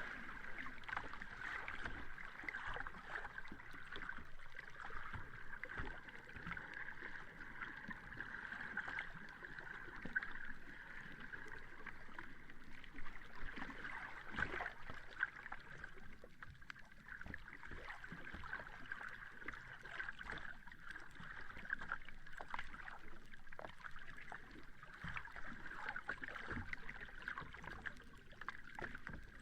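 Sea water washing on a shore: a steady, even wash with small irregular splashes and clicks, no large breaking waves.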